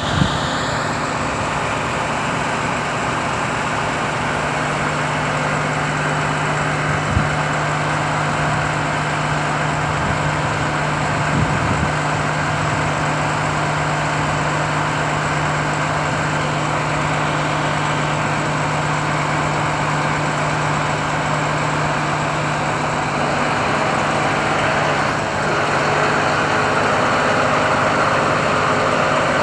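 MAN TGS 35.360 truck's diesel engine idling steadily, with a couple of light knocks in the first half and a slight rise in level near the end.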